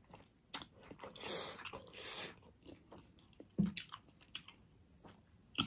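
Close-up mouth sounds of someone eating a juicy pork momo: wet chewing and smacking with many sharp clicks, and two short hissing sounds about one and two seconds in.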